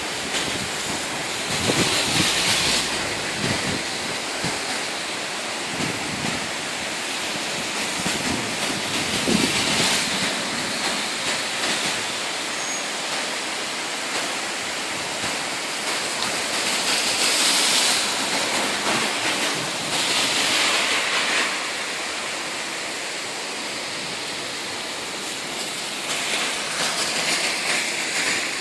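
Heavy rain falling in a steady hiss that swells louder several times.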